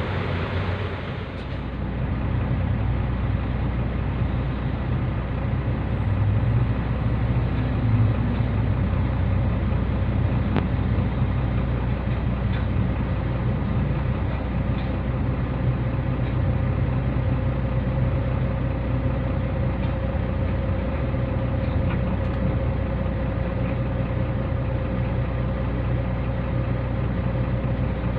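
Heavy diesel truck engine running steadily with a low, even drone.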